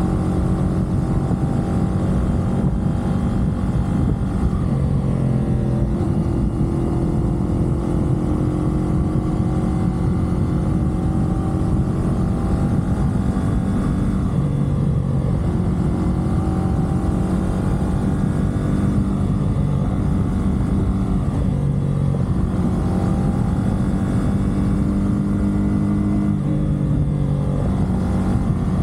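CFMoto 450SR parallel-twin engine running at expressway cruising speed, with wind and tyre rush underneath. Its note steps in pitch several times as the throttle or gear changes.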